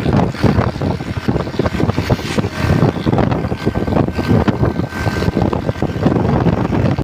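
A motor vehicle running, heard as a steady loud noise with irregular knocks and rattles throughout.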